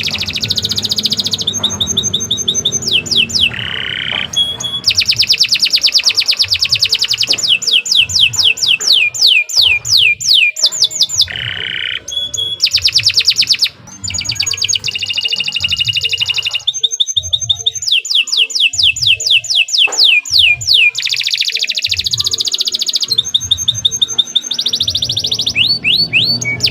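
Domestic canary singing a long, unbroken song of rapid high trills. Runs of quick, evenly repeated falling notes alternate with buzzy rolls, and the song switches to a new trill every second or two.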